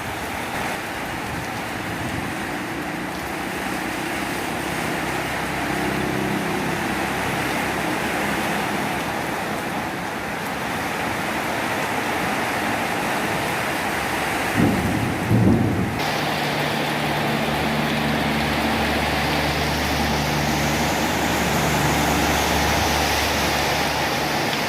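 Heavy storm rain pouring, with strong wind, a steady rushing hiss. About fifteen seconds in there is a brief louder low rumble, and after that the hiss is brighter and a little louder.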